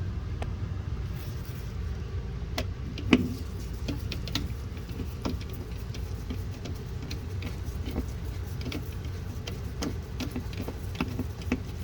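Scattered light clicks and taps of plastic refrigerator shelf parts being handled and fitted, with one sharper knock about three seconds in, over a steady low rumble.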